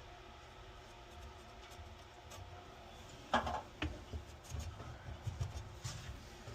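Faint handling noise with a few light clicks and knocks, the sharpest two coming about three and a half seconds in, followed by soft thumps.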